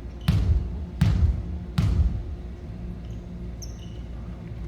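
A basketball being dribbled on a gym floor: three bounces about three quarters of a second apart, then a quieter stretch with a brief high squeak.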